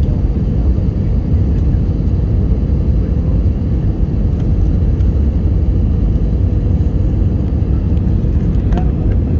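Airbus A320 passenger cabin noise: a steady, loud low rumble of engines and rushing airflow.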